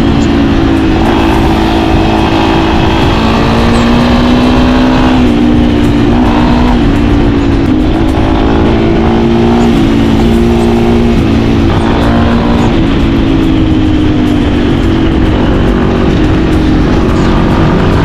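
Motorcycle engine running at a fairly steady cruising speed while riding, its pitch drifting gently up and down, with heavy wind rush on the microphone.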